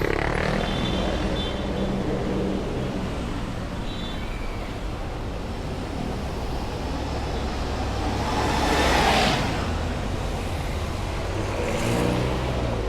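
Heavy road traffic: engines run steadily with a low hum. A vehicle passes close about nine seconds in, the loudest moment, and another passes near the end.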